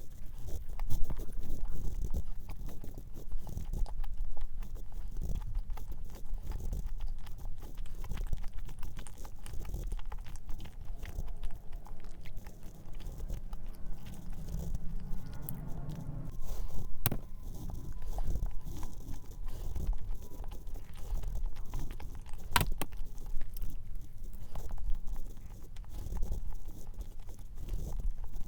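Close-miked chewing of a thick, soft cream-cheese cup cookie, with many small mouth clicks and two sharp clicks in the second half.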